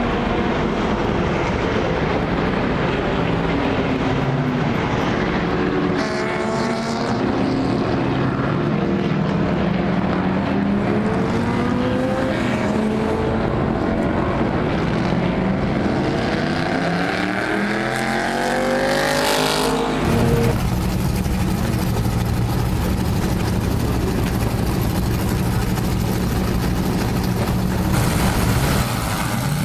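Historic racing car engines running hard, their pitch sweeping up and down as they rev through the gears. About two-thirds of the way in the sound switches abruptly to a steadier engine note.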